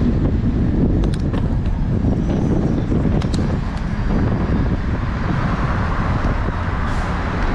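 Wind rumbling on the microphone over city traffic noise during a bicycle ride, with a few light clicks about a second in and again about three seconds in.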